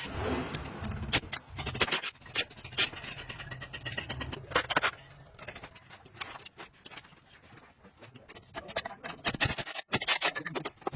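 Metal tools and parts scraping, rubbing and clinking, with scattered sharp knocks. A low steady hum runs underneath for the first half and stops about halfway through.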